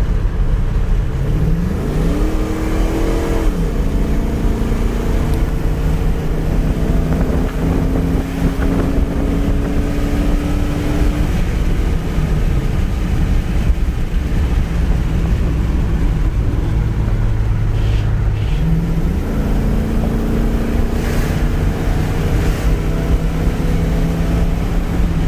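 Vehicle engine running on the move over a steady low road rumble, its pitch rising as it speeds up about two seconds in and dropping back soon after, with another change in revs later on.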